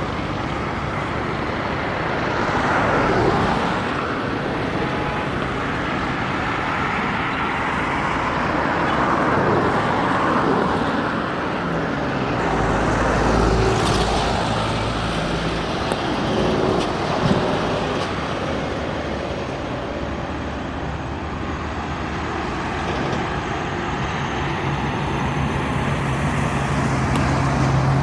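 Highway traffic passing close by, trucks and cars going past one after another, the tyre and engine noise swelling and fading with each vehicle. A heavy diesel truck engine's low drone stands out around the middle and again near the end.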